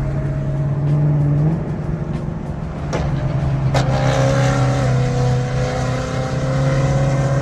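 Car engine droning steadily while driving, with a sustained higher tone coming in sharply about four seconds in.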